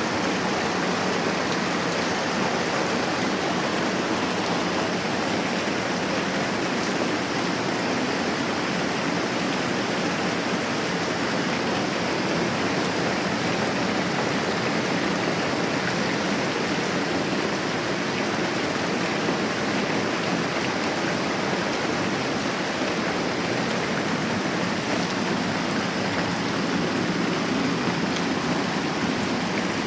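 Moderate rain falling steadily, an even hiss with no breaks.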